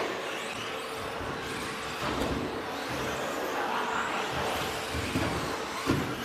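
Several electric RC stadium trucks with 13.5-turn brushless motors racing on a dirt track: overlapping high motor whines rising and falling with the throttle, over a steady hum with a few low thumps.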